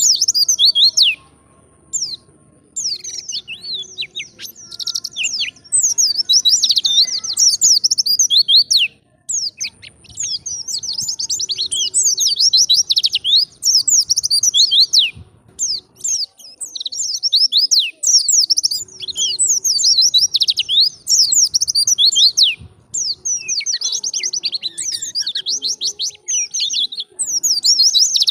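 White-eye (pleci) singing in long runs of rapid, high twittering with quick up-and-down sweeps, broken by a few brief pauses.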